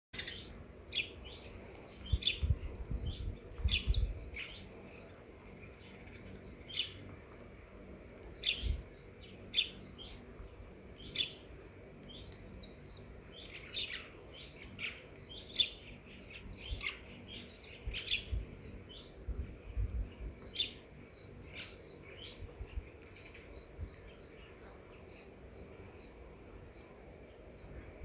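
Small birds chirping over and over in short, sharp, high notes. A few low rumbles come in underneath, strongest about two to four seconds in.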